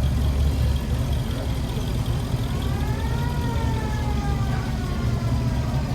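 Vehicle engines rumbling steadily, with a single siren wail in the middle that rises for about a second and then falls slowly away.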